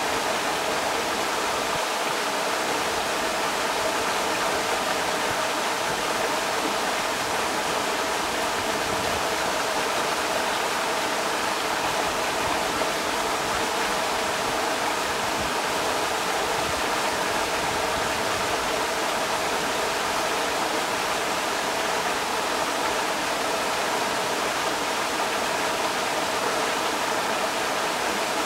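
Creek water rushing steadily over rocks, an even, unbroken rush of water.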